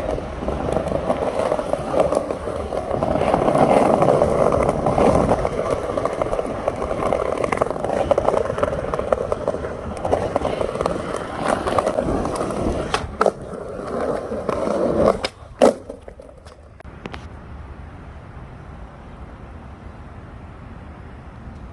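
Skateboard wheels rolling over pavement in a steady rumble, with a couple of sharp knocks of the board near the end of the ride; then the rolling stops and it goes quieter.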